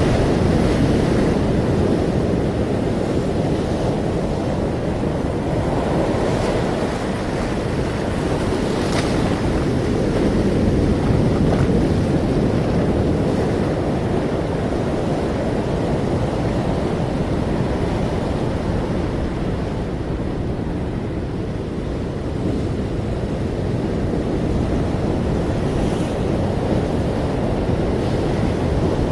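Ocean waves and surf washing steadily, the rumble rising and falling slowly in slow swells, with wind on the microphone.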